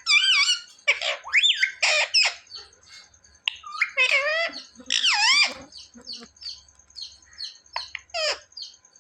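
Rose-ringed parakeet (Indian ringneck) calling: a run of loud, repeated squawking notes, then softer short chirps in the second half.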